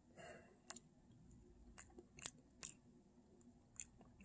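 Faint mouth sounds of eating: a few soft clicks and smacks while chewing spicy ramen and licking sauce off a finger, otherwise near silence.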